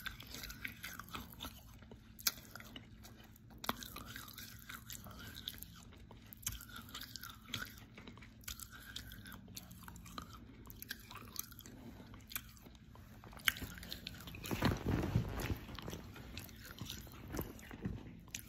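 Close-up mouth sounds of a person biting and chewing crunchy edible clay: a run of sharp crunches and clicks, louder and denser about fifteen seconds in.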